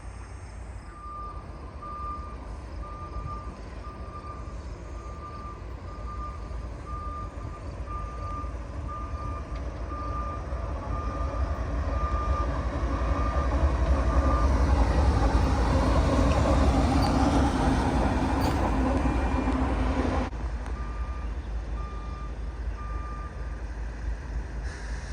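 Diesel locomotive running light engine: its rumble builds as it approaches, is loudest a little past the middle, then cuts off abruptly. Over the first half a steady electronic beeping sounds, about one and a half beeps a second, and comes back briefly near the end.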